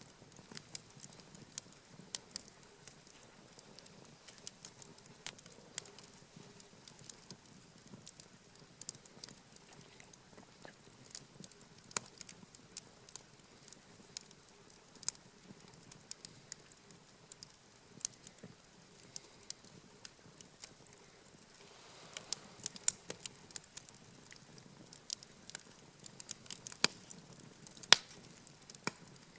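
Wood campfire crackling, with sharp pops at irregular intervals that come thicker and louder in the last several seconds.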